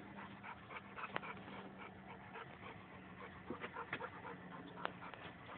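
A dog panting faintly, with soft irregular breaths and small scuffling clicks.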